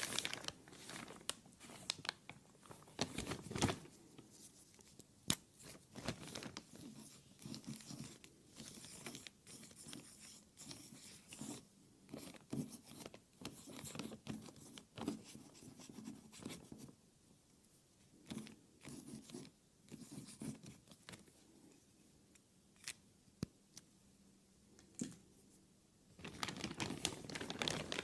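Plastic being crinkled and handled, giving irregular crackles and sharp clicks. Dense at first, it thins to scattered soft crackles through the middle and turns dense again near the end.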